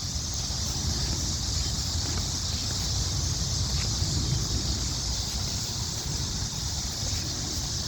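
Wind buffeting the microphone outdoors, a gusty low rumble, over a steady high-pitched hiss.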